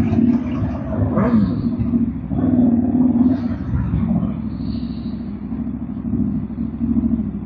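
Aprilia RSV4 1100 Factory's V4 engine running at low revs as the bike rolls slowly, a steady low drone that swells and eases, with a brief change in pitch about a second in.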